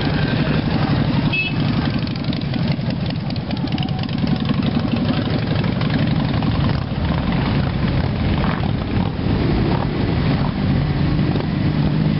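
Motorcycle engines running with a steady, pulsing rumble.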